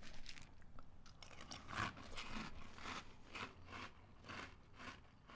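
A person chewing a mouthful of Cap'n Crunch's Christmas Crunch cereal in milk: a faint, irregular run of crunches, about two or three a second.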